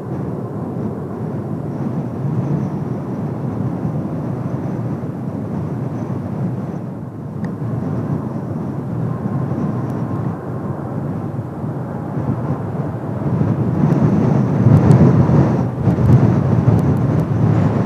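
Twin turbofan engines of Kawasaki T-4 jets running at a distance: a low rumble with a faint high whine, mixed with gusting wind buffeting the microphone. The rumble swells louder in the last few seconds.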